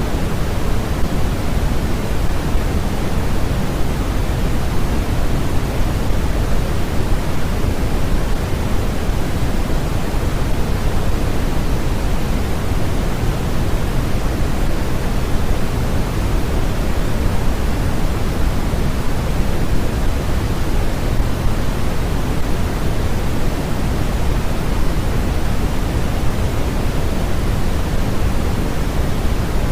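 Steady generated white noise, even and unchanging, with more weight in the low end than the highs so it sounds deep, like pink noise.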